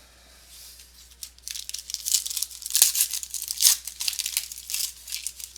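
Wrapper of a pack of trading cards being torn open and crinkled. A quiet second, then a run of crackly tearing and crumpling that fades near the end.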